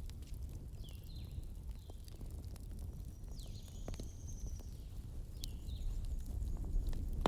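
Wood fire crackling, with scattered sharp pops and snaps over a low, steady rumble.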